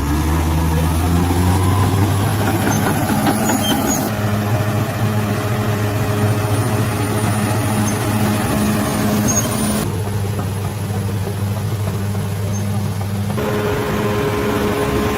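Heavy bulldozer's diesel engine running steadily at a constant low pitch. The sound shifts abruptly a few times.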